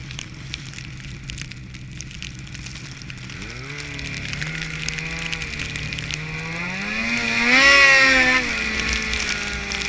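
Snowmobile engine running at a low, steady pitch, then revving up in two steps, loudest about eight seconds in, before easing back to a steady, higher-pitched run.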